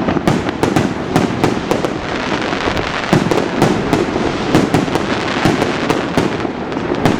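Fireworks display: a dense, continuous string of shell bursts and cracking bangs, several a second, over a steady rumbling wash.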